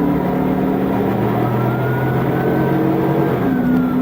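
Police car engine running under load, its note shifting pitch twice, with a siren wailing slowly up and down over it.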